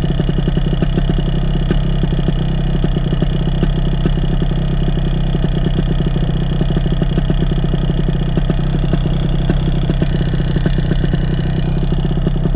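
Paramotor engine running steadily at a constant throttle, an even engine note with no change in pitch.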